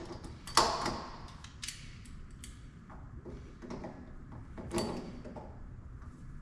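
Metal clicks and clanks of vice grips being fitted and worked on a stripped drain fitting of a furnace's water separator. The sharpest knocks come about half a second in and near the five-second mark.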